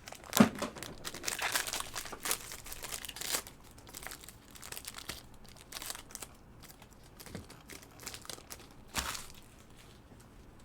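Crinkling and rustling of trading-card packaging and cards being handled, busiest in the first few seconds, with a sharp knock about half a second in and another near the end.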